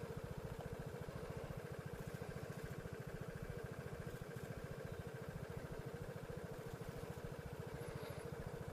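Vespa scooter's single-cylinder engine running steadily, an even rapid pulse with no change in speed.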